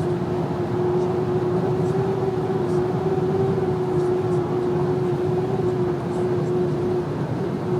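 VW Amarok making a steady whistle while driving at just over 120 km/h, heard over the road noise. The whistle holds one pitch and drops out briefly near the end.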